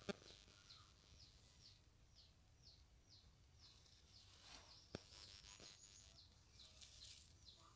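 Faint bird chirping: a short, falling high note repeated about twice a second, with two faint clicks, one at the start and one about five seconds in.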